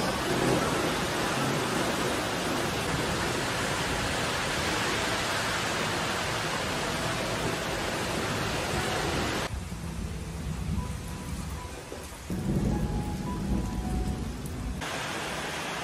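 Steady heavy rain. About two-thirds of the way through, the rain cuts out abruptly, leaving a low rumble of thunder that swells and rolls, and the rain comes back near the end.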